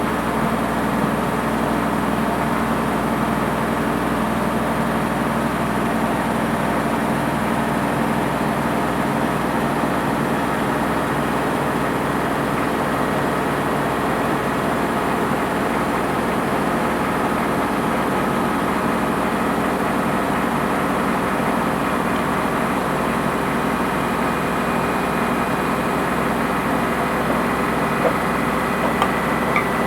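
Front-loading washing machine running steadily late in its wash program, a continuous motor hum and whine with a few small ticks near the end.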